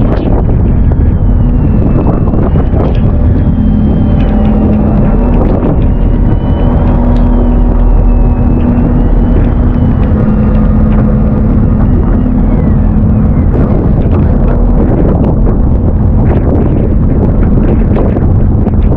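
Strong wind buffeting the microphone with a low, continuous rumble, over a steady motor hum whose pitch shifts in small steps and a faint wavering whine above it, with scattered light knocks.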